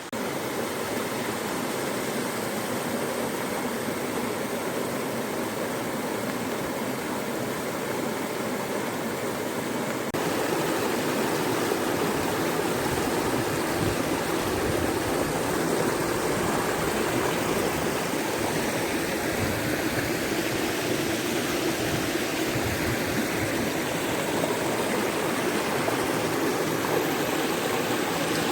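Small woodland waterfall and stream: water rushing and splashing steadily, turning suddenly louder about ten seconds in.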